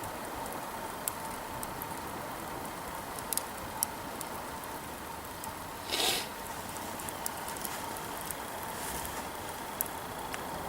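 Wood campfire burning, crackling with scattered sharp pops, and one louder, brief burst about six seconds in.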